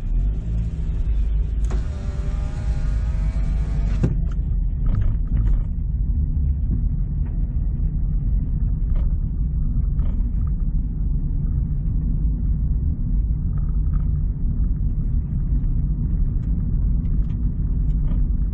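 A car's power window motor whining for about two seconds, rising slightly in pitch and stopping with a click, over the car's steady low engine and road rumble.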